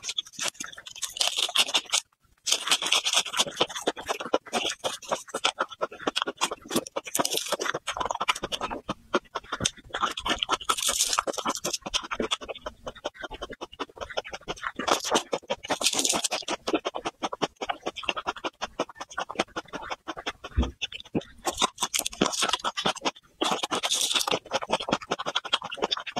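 Close-up chewing and crunching of raw garlic cloves: a dense, continuous run of crisp crackles and wet mouth sounds in repeated bursts, with a brief pause about two seconds in.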